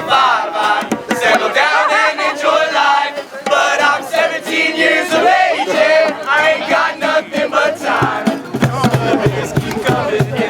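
A group of people singing and shouting along together, loud and unintelligible, over music. About eight seconds in, a steady pulsing low beat comes in under the voices.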